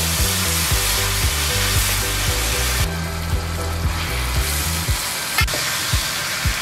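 Garlic and chillies sizzling in hot oil in a wok as they are stirred with a wooden spatula; the sizzle falls away about three seconds in and comes back about a second later as fried long beans and eggplant go into the pan. Background music with a steady beat and bass line plays under it.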